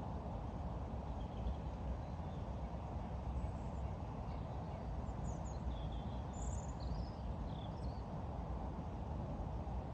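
Outdoor ambience: a steady low rumbling noise, with faint high bird chirps scattered through it, most of them in the middle.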